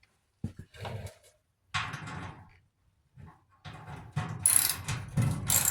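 Tools and dryer parts being handled during disassembly: irregular clanks, rattles and scrapes in several bursts, starting about half a second in and loudest near the end.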